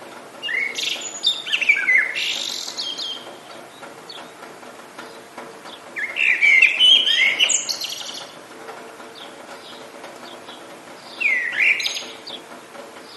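A songbird singing three short phrases of rapid, downward-sweeping chirps and trills, several seconds apart, over a steady background hiss.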